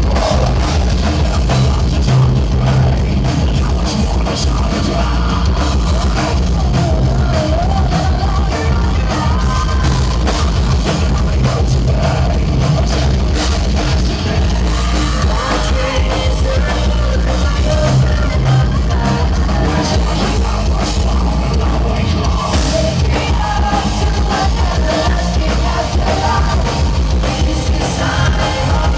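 Live heavy metal band playing at full volume, with drums, distorted guitars and bass under a sung vocal line.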